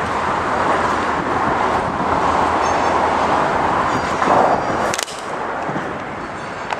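A diesel-hauled freight train passing: locomotives running and freight cars rolling on the rails, a steady loud noise that drops abruptly about five seconds in, with a few sharp clicks near the end.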